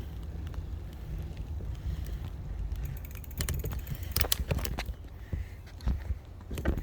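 Low rumble of wind and road noise from a moving electric bike, with a run of sharp clicks and rattles from about three to four and a half seconds in, and a few more near the end.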